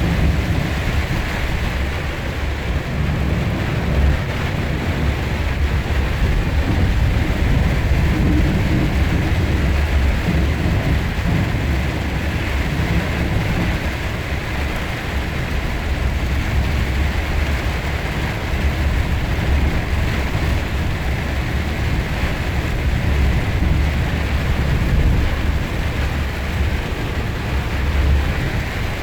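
Steady noise of heavy rain, with a deep rumble underneath that stays loud throughout.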